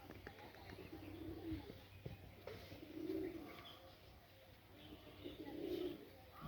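Domestic pigeons cooing: three low, rolling coos about two seconds apart, with a few faint clicks between them.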